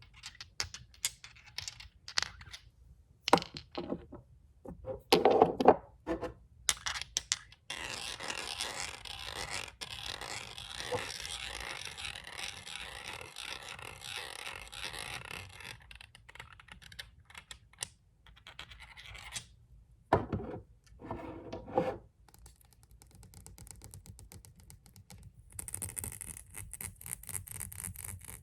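Tapping and scratching on glass nail polish bottles. Quick, sharp taps come first, then a steady scratching that lasts several seconds, then a few more taps and a fast, fine scratching near the end.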